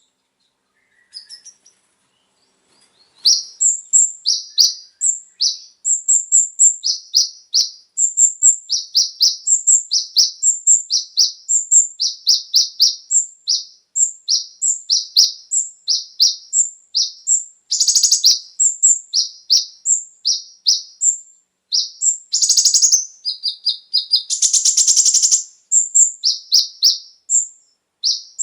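Kolibri ninja (konin) sunbird singing: fast runs of short, high, thin chirps, broken by a brief pause near the start and by two denser buzzy trills in the later part.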